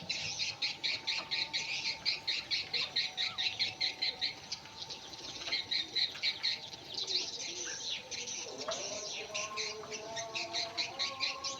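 Many small birds chirping in a fast, continuous chatter. Lower, longer calls join in from about eight seconds in.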